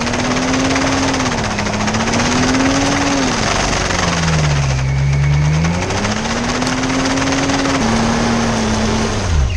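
Car engine revving up and down while being driven hard, its pitch rising, dropping low about halfway through, climbing again and falling away at the end, over loud road and engine noise.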